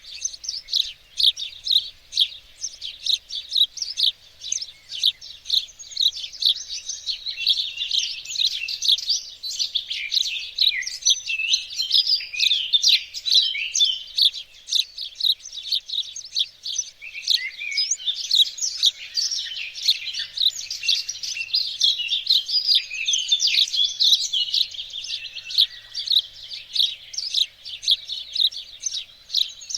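Songbirds chirping and singing, a dense stream of quick, high, overlapping chirps and twitters with no pause.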